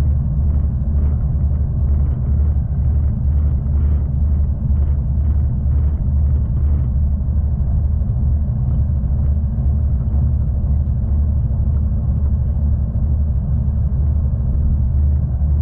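Steady low rumble of a V/Line passenger train running along the track, heard from on board, with light rattling clicks during the first several seconds.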